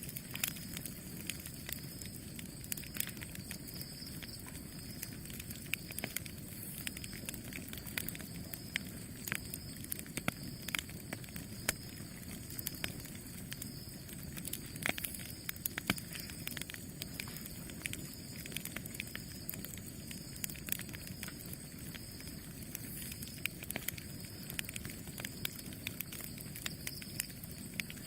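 Campfire burning: a steady low rush of flame with frequent irregular crackles and sharp pops of burning wood.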